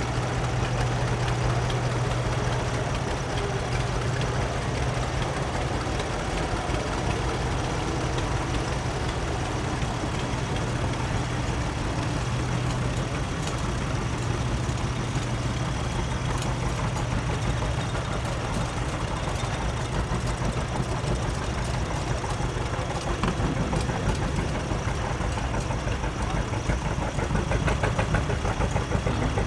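Antique tractor engines running at low speed: a steady low drone, with a coarser, louder engine coming in about 23 seconds in and growing near the end.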